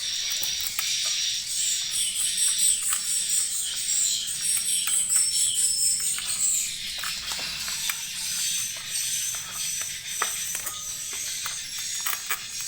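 Dense high twittering of edible-nest swiftlets, with many short chirps and rapid sharp clicks throughout.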